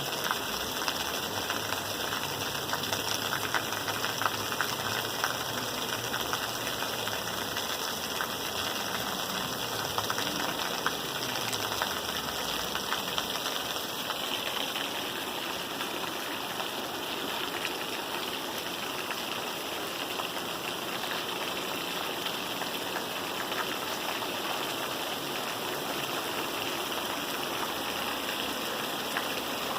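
Steady rain falling, an even hiss of rain on surfaces. In the first half a low engine hum sits under it, shifting in pitch and fading out about halfway through.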